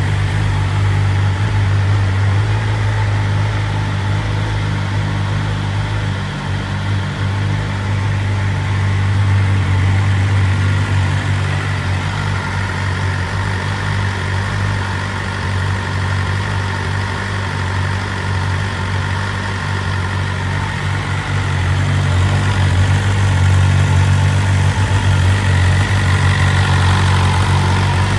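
2023 BMW S1000RR's inline-four engine idling steadily, a little louder in the last few seconds.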